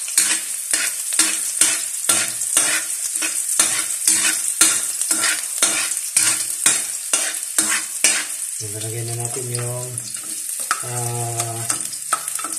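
Chopped ginger sizzling in a little hot oil in a metal wok while a spatula stirs and scrapes the pan, its strokes coming about twice a second.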